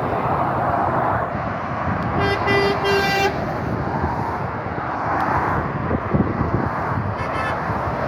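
Road traffic passing steadily, with a vehicle horn sounding one long toot of about a second, a little over two seconds in. A shorter, fainter tone follows near the end.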